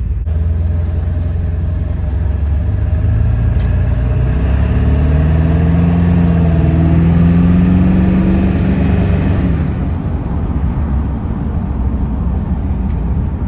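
Ford F-350 diesel engine running with a deep rumble, its pitch climbing steadily for a few seconds as it speeds up, peaking about eight seconds in and then dropping back.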